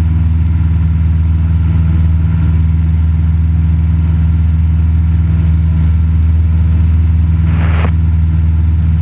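Cessna 172 Skyhawk's piston engine and propeller droning steadily in cruise flight, heard from inside the cabin.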